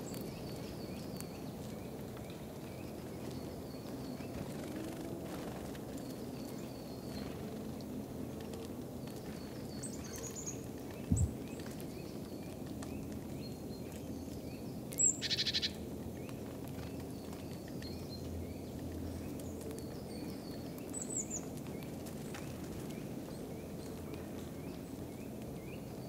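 Forest ambience over a steady low background noise, with small birds making short high-pitched chirps again and again. One sharp knock comes about eleven seconds in, and a brief high rattling trill a few seconds later.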